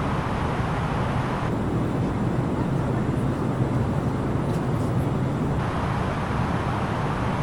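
Steady cabin noise of an Airbus A330-900neo in descent: a low hum from its Rolls-Royce Trent 7000 engines under an even rush of airflow. The higher hiss dulls for about four seconds, starting about a second and a half in.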